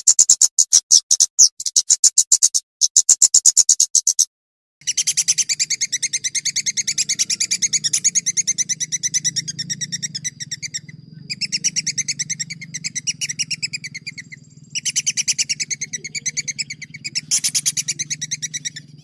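Songbird song of rapid, rolling trills: sharp high notes repeated about eight to ten times a second in long runs that break off and restart abruptly, as in a spliced training recording. From about five seconds in, a steady low hum sits underneath.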